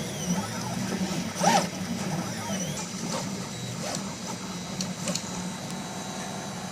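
Colido 3D printer running: its stepper motors whine in short gliding V-shaped swoops as the print head moves, over a steady low hum, with one louder knock about a second and a half in.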